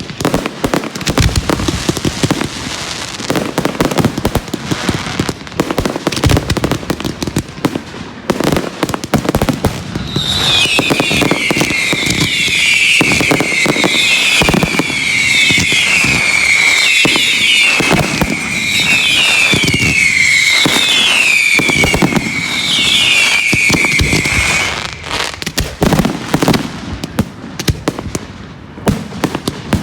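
Fireworks going off in rapid succession, a dense run of bangs and crackles. From about a third of the way in, a long string of shrill whistling fireworks plays over them, each whistle falling in pitch, until the whistles stop suddenly near the end.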